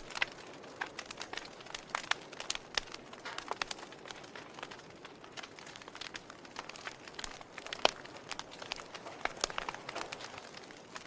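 Wood fire burning, with irregular crackles and snaps over a soft hiss; one sharp pop stands out about eight seconds in.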